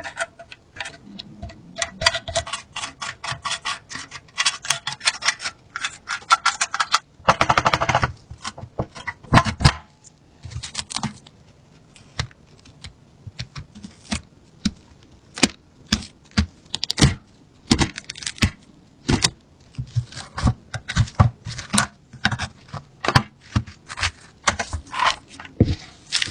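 Metal parts of a rusted submachine gun clicking and clattering as they are handled, in a fast run of clicks at first and then sparser, irregular ones, with a short scraping burst about seven seconds in.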